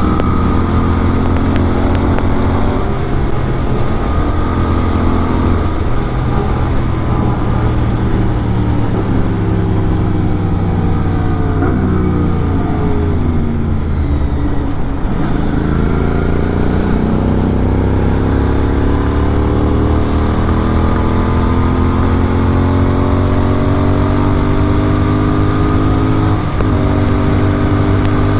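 Kawasaki Z900 inline-four with an SC Project exhaust on the move. The engine note falls steadily for about fifteen seconds as the bike slows, then climbs again as it accelerates, with a short break near the end.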